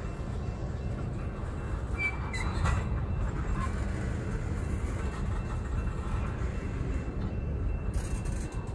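Freight train of covered hoppers and tank cars rolling past with a steady low rumble of steel wheels on rail. A few brief high wheel squeals and clinks come about two seconds in.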